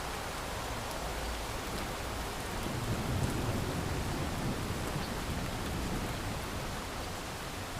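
Steady heavy rain hiss with a low rumble of thunder that swells about two and a half seconds in and dies away about four seconds later.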